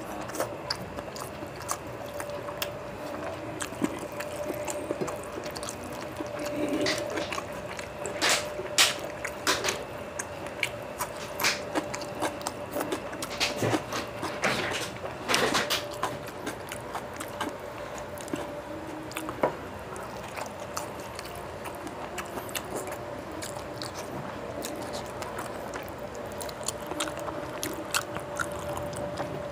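Close-miked wet chewing, smacking and clicking mouth sounds of a man eating rice mixed with curry by hand, most busy in the middle, over a faint steady hum.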